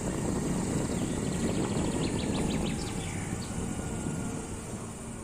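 A steady low rumble that eases off toward the end, with a short run of high bird chirps about two to three seconds in.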